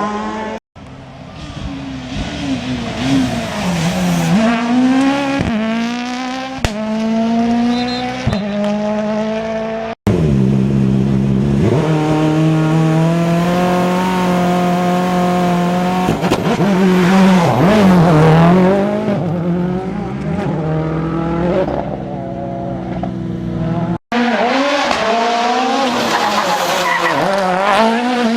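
Rally cars at full throttle on a special stage, engines revving hard and shifting gear, pitch climbing and dropping repeatedly as they brake and accelerate. The sound breaks off abruptly three times where one car's pass is cut to the next.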